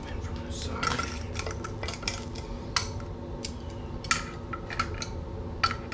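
Metal hand tools clinking and scraping against metal parts in irregular clicks, some ringing briefly, while working at a stuck pin on a swamp cooler.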